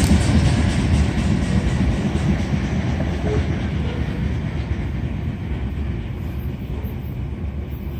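Freight train's covered hopper cars rolling away on steel rails, a low rumble of wheels on track that fades steadily as the tail end of the train recedes.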